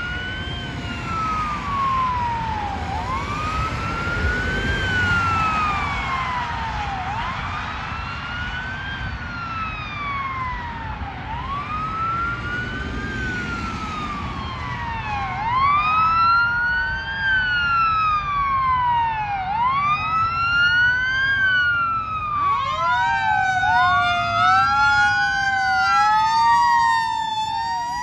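Fire apparatus sirens wailing, the pitch sweeping up and down about every two seconds over a low engine rumble. A second siren joins about halfway through, and the two wails overlap to the end.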